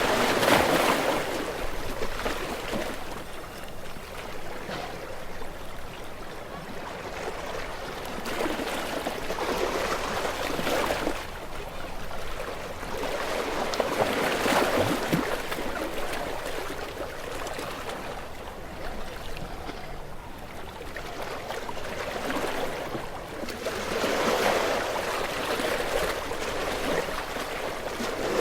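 Small waves washing onto a shore. Each one comes as a swell of rushing water noise that rises and fades, about four of them several seconds apart.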